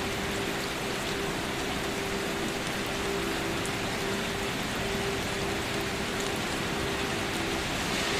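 Steady, gentle rain falling, an even hiss of drops on surfaces with no change in strength.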